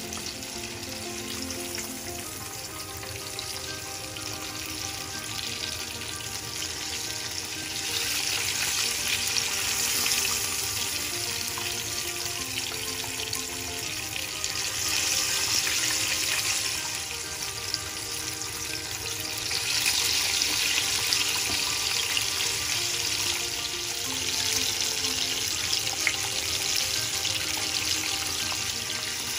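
Breaded chicken fillets frying in hot oil in a pan: a steady sizzle that swells louder several times, with soft background music underneath.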